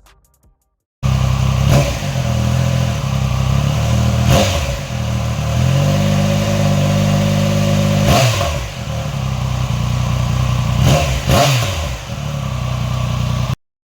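Triumph Speed Triple 1200 RR's inline three-cylinder engine running through a Pro Race exhaust, its pitch rising and falling several times as it is revved. The sound starts abruptly about a second in and cuts off suddenly near the end.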